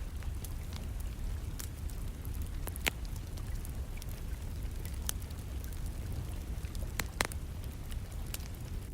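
Wood fire crackling in a fireplace, with scattered sharp pops, the two loudest about three and seven seconds in, over a steady low rumble and the hiss of rain.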